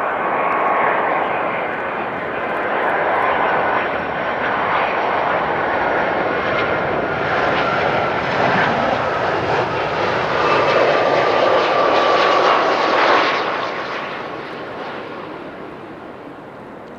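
Boeing 757-200 jet engines on landing: a loud roar with a steady high whine, building to its loudest about thirteen seconds in, then fading away as the jet passes.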